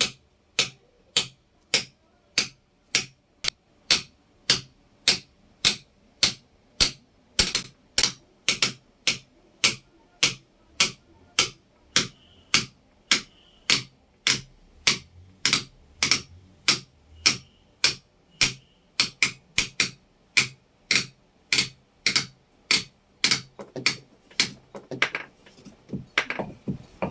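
A hammer striking a chisel in steady blows about two a second, pecking a pattern into a grinding stone to dress it. The blows come quicker and less evenly near the end.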